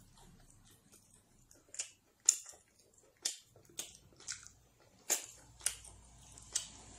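A person chewing food close to the microphone, with about eight sharp wet smacks and crunches at uneven intervals.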